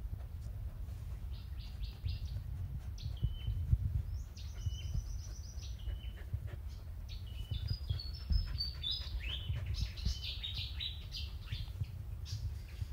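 Small birds chirping and twittering in quick series of short high notes that step up and down in pitch, over a steady low rumble.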